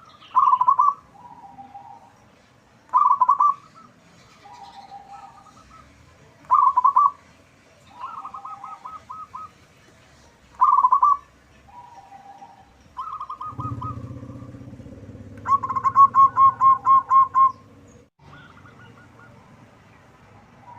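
Zebra dove (perkutut) cooing repeatedly: a loud, bubbling call phrase every three to four seconds, each followed by softer, lower notes. Past the middle, a quick string of repeated coos is heard over a low rumble lasting a few seconds.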